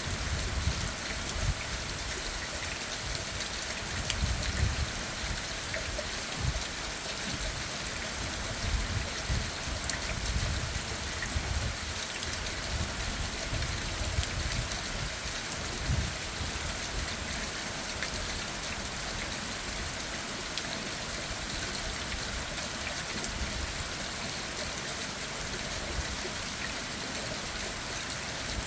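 Steady rain pattering on leaves and ground, with irregular soft low thumps, more of them in the first half.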